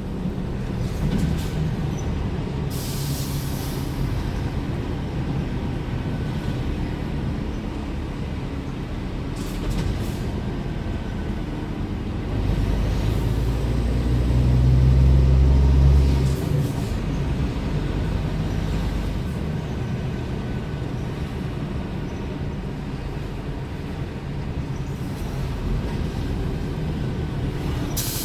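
Scania R410 truck's 13-litre straight-six diesel running steadily while driving, growing louder and deeper from about twelve seconds in as it pulls, then easing off at about sixteen seconds. Two brief hisses, around three seconds in and near the end.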